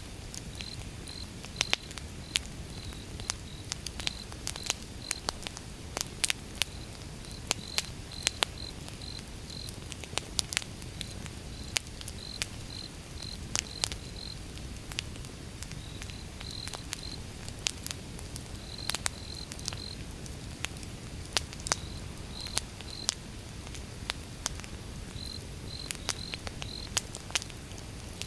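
Wood fire crackling: irregular sharp pops and snaps from the burning logs over a low steady rumble of flame. A cricket chirps in short runs of high pulses every few seconds.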